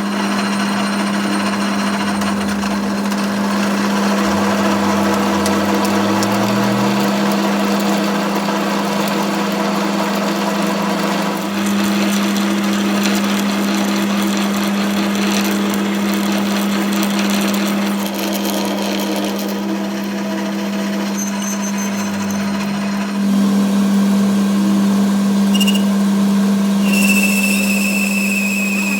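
Workshop machinery running with a steady hum over a constant mechanical noise. A high steady tone joins near the end.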